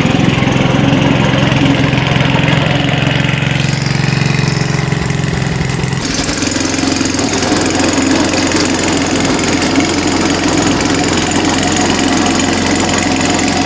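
Gas snow blower engine running steadily while clearing snow. The sound changes abruptly about six seconds in.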